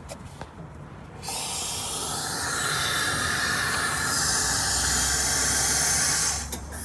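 Espresso machine steam wand steaming milk: a loud, steady hiss that starts suddenly about a second in, changes in tone partway through, and cuts off shortly before the end.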